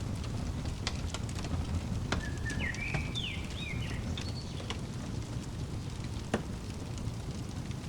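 Wood fire crackling, with scattered sharp pops over a steady low rumble and one louder pop about six seconds in. A songbird chirps a quick run of rising and falling notes two to four seconds in.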